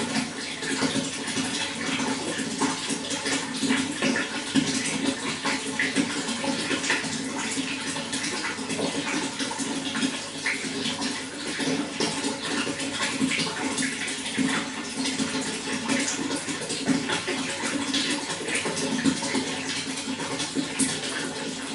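Running water flowing steadily, with many small splashes scattered through it.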